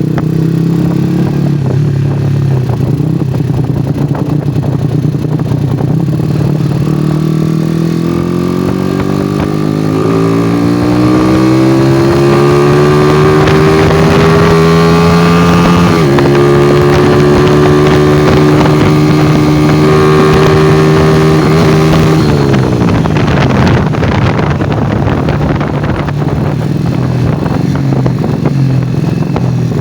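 Yamaha Jupiter Z (5TP) motorcycle's single-cylinder four-stroke engine running through a loud aftermarket exhaust while ridden. Revs sit low at first, climb steadily for several seconds, hold high with a brief dip about halfway through, then fall away as the throttle closes.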